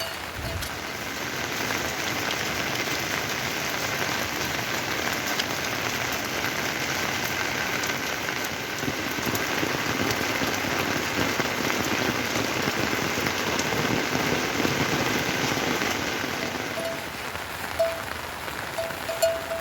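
Steady heavy rain falling, an even hiss with a few short, sharper sounds near the end.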